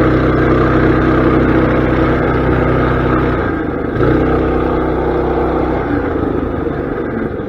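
Mini bike's small engine running under throttle. It drops off about three and a half seconds in, picks up again half a second later, then slowly eases off.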